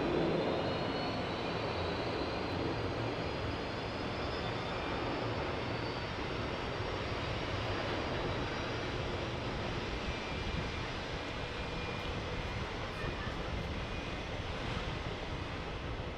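Jet airliner's engines: a steady rush with a thin high whine over it, loudest at the start and slowly fading.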